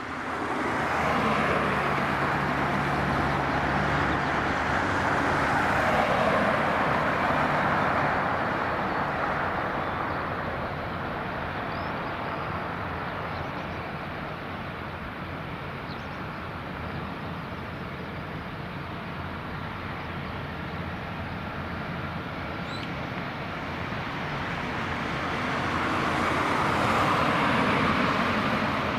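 Jet airliner engines running through an arrival, a broad rumble that grows louder about six seconds in, eases off, then grows again near the end.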